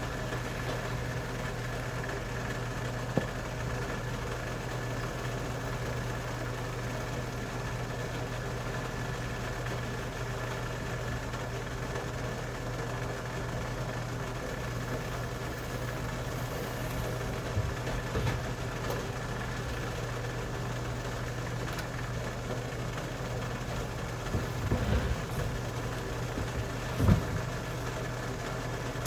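Steady mechanical hum, made of several fixed tones, with a few light knocks scattered through and a louder knock near the end.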